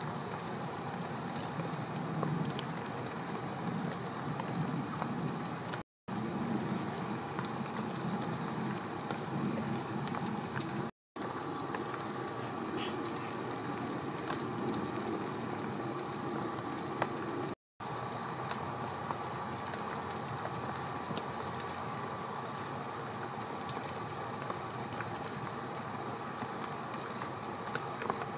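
Steady rain falling on a river's surface, a constant hiss with scattered small drop ticks and a low rushing underneath. The sound cuts out for a moment three times.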